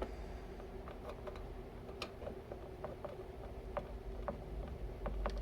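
Small, irregular metallic clicks and ticks of a screwdriver driving a small screw into a computer case, with a cluster of quicker clicks near the end, over a faint steady hum.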